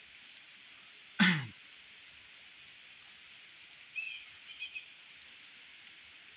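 Steady hiss of rain falling on a pond. About a second in, one short loud call sweeps sharply down in pitch, and a few short bird chirps follow around the four-second mark.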